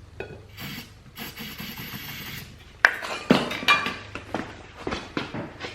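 Aerosol can of starting fluid sprayed in two short hissing squirts into the tire to set the bead, followed about three seconds in by a sharp knock and a run of clinks and rattles from handling.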